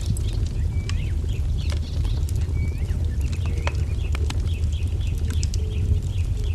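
Wood fire crackling with scattered sharp pops over a steady low rumble, while small birds chirp, with a run of quick repeated chirps in the second half.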